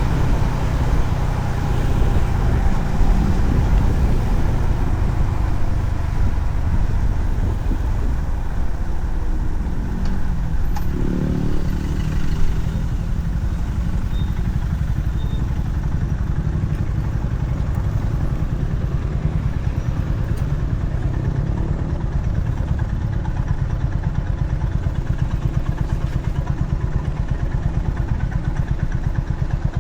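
Honda CB350RS's air-cooled single-cylinder engine running, with road and wind noise. The engine note shifts about a third of the way in, then settles into a steady, even beat.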